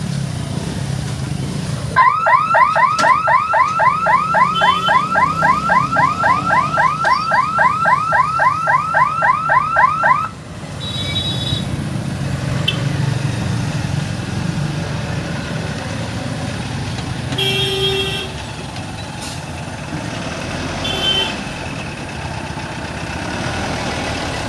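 Level-crossing warning siren sounding a rapid rising electronic wail, about four times a second, for about eight seconds before cutting off, over a steady rumble of idling road traffic. Afterwards the traffic rumble goes on, with a few short vehicle horn toots.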